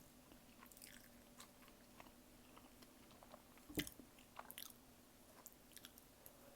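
Close-miked chewing: soft, scattered wet mouth clicks, with one louder click about four seconds in, over a faint steady hum.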